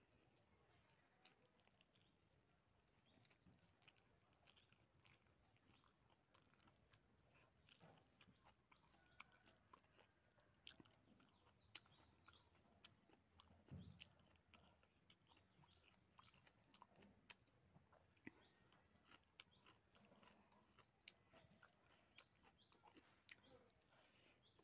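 Faint close-up chewing and mouth sounds of a person eating rice and pork by hand, with many short wet smacks and clicks scattered irregularly.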